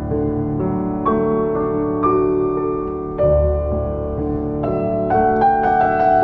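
Background music: slow, gentle piano, single notes and chords sounding every half second or so and ringing on.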